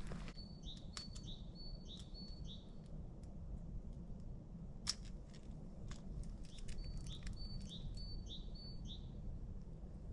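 A songbird singing two phrases of repeated high whistled notes, each a held tone followed by short falling slurs, with a pause between them. A few scattered sharp clicks, likely a knife tapping a cutting board as leek is chopped, fall between the phrases.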